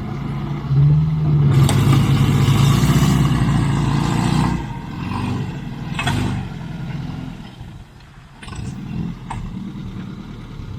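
Suzuki Sierra comp truck engine revving hard for a few seconds, then easing back to a lower, quieter running, with a few sharp knocks later on.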